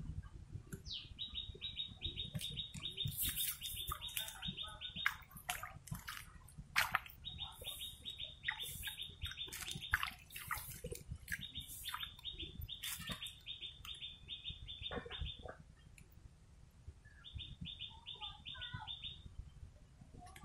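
A bird's rapid trill, about nine even pulses a second, given in runs of two to four seconds, four times over. Sharp high chirps or clicks are scattered among the runs, over a low steady rumble.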